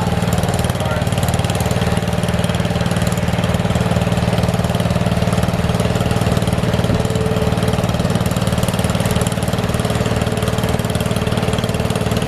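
Small garden-tractor engine running steadily at a constant speed, its firing pulses evenly spaced.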